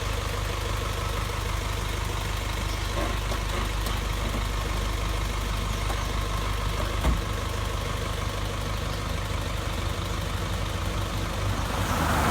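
Isuzu box truck engine idling steadily, with one short knock about seven seconds in.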